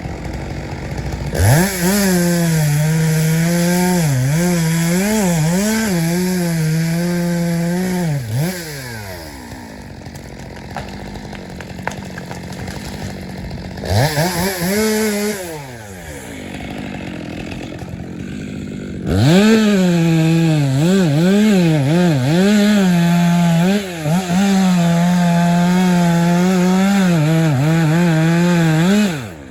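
Stihl two-stroke chainsaw revving to full throttle and cutting wood, its pitch dipping and recovering as the chain bites. It drops back to idle about eight seconds in, blips briefly around fourteen seconds, then cuts again from about nineteen seconds until just before the end.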